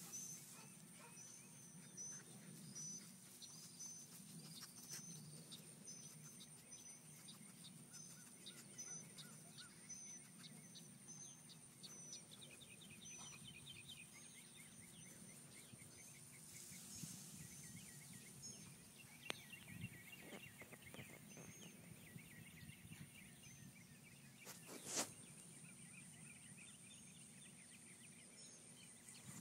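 Quiet outdoor ambience with songbirds calling: a high chirp repeated a little more than once a second for about the first twelve seconds, then fast trills around the middle. A steady high whine runs underneath, and a single sharp click comes near the end.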